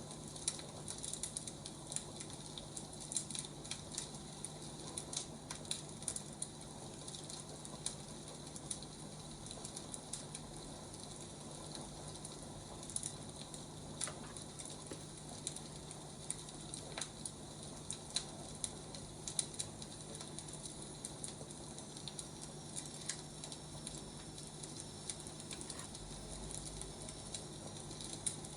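Wood fire crackling, with a steady run of small irregular pops and snaps over a soft hiss.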